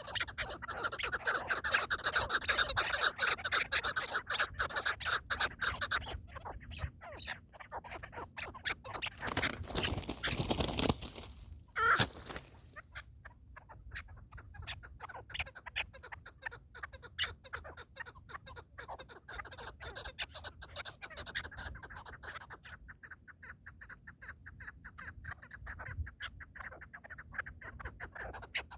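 Partridges calling in a rapid, chattering run of short clucks, loudest in the first few seconds and fainter later. A rushing noise comes about nine seconds in, followed by a single sharp crack.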